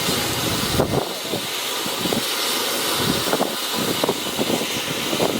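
Rajkala Wonder3 3-in-1 colour fountain firework burning with a steady, jet-like hiss, with a few faint crackles through it.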